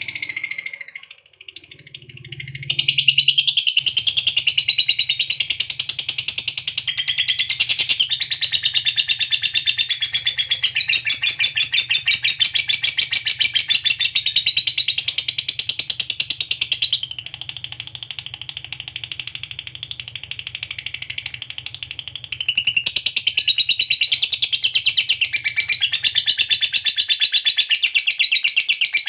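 Lovebird in full song doing the long 'ngekek' chatter: a near-unbroken stream of rapid, shrill, wavering notes starting about three seconds in. It softens for a few seconds in the middle and then comes back loud.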